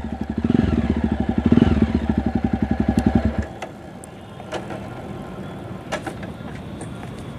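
Jawa Perak's 334 cc single-cylinder engine running at low revs with its dB killer removed, giving an even thumping exhaust beat, then cutting out abruptly about three and a half seconds in. A few faint clicks follow.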